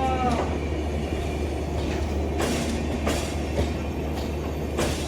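Coaches of a passenger express train rolling past, their wheels knocking over a rail joint in pairs, under a steady rumble. A brief wheel squeal sounds right at the start.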